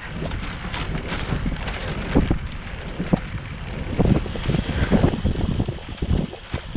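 Wind buffeting the microphone on a bicycle moving fast, a steady rumble with a few irregular knocks and rattles as the bike goes over bumps.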